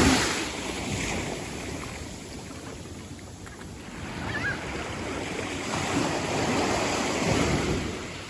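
Small waves washing in over the shallows, swelling twice, with some wind on the microphone.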